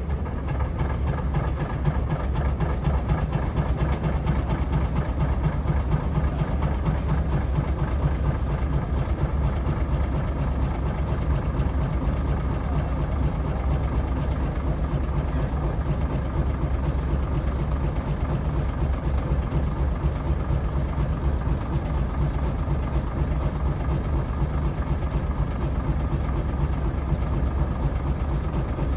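Diesel engine of a 2004 Caterpillar 345BL excavator running at a steady idle, with a deep, even tone and no revving.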